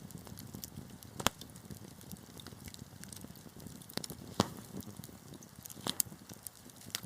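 Wood fire burning in a fireplace: a soft low rumble of flames under steady small crackles, with a few sharp loud pops, the loudest about a second in and near the middle.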